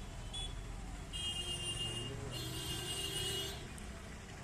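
Road traffic rumble with a high, steady electronic tone that sounds for about two and a half seconds, shifting pitch once partway through, after a short high beep near the start.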